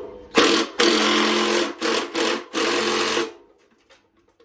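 Cordless power driver running in four short bursts as it tightens a bolt, stopping a little after three seconds in.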